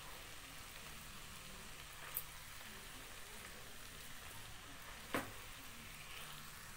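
Faint sizzle of chow mein noodles and vegetables frying in a kadai as they are tossed with wooden spatulas, with two light knocks about two and five seconds in.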